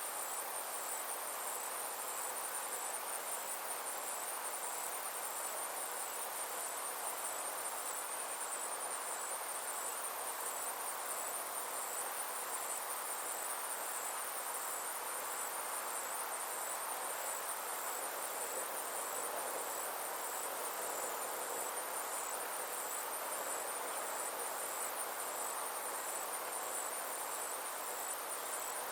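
Insects chirring in a steady, high-pitched, finely pulsing trill, over a soft even hiss lower down.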